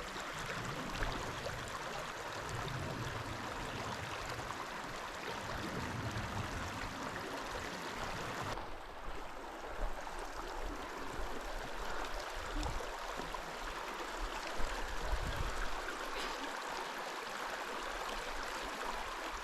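Small mountain creek flowing: a steady rush of water, with a few soft low thumps on the microphone.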